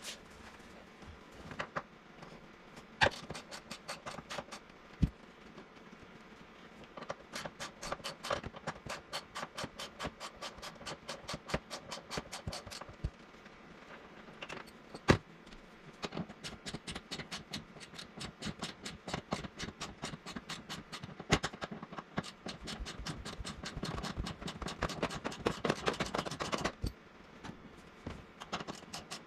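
Runs of rapid, even clicking from a hand ratchet turning seat bolts, broken by a few sharp metal knocks.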